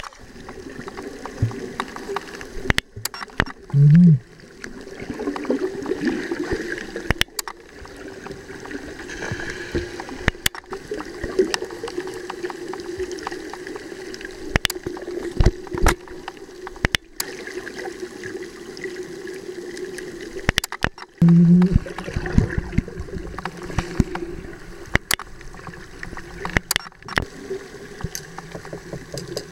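Water gurgling and sloshing, with many sharp clicks and knocks scattered throughout and two brief loud low hums, about 4 and 21 seconds in.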